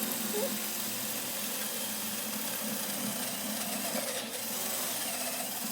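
Hand-held electric drill running steadily under load, boring the hole for a 6 mm helicoil thread insert into an aluminium Lambretta engine casing, then cutting off sharply at the end.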